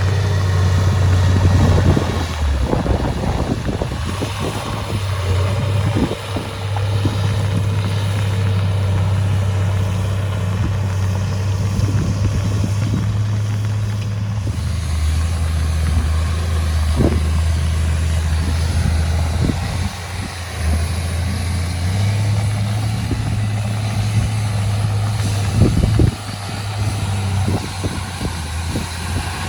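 Heavy diesel engine of earthmoving machinery running under work, its speed stepping up and down a few times, with occasional sharp metallic clanks.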